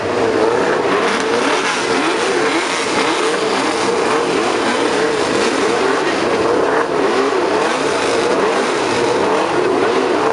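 Formula One car engine running at high revs, its pitch wavering rapidly up and down as the throttle is worked.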